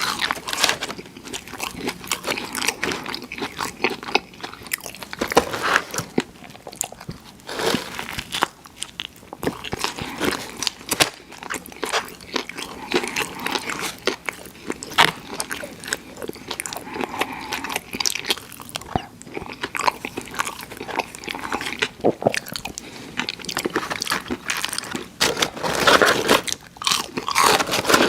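Someone biting and chewing crispy fried food, with dense irregular crunching and crackling throughout.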